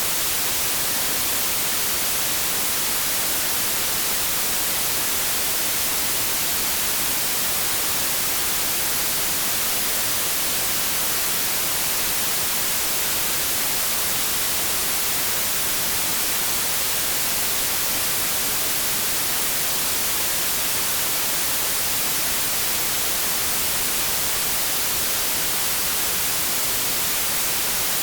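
Continuous synthetic white noise: a steady, even hiss, strongest in the high frequencies, with no change in level.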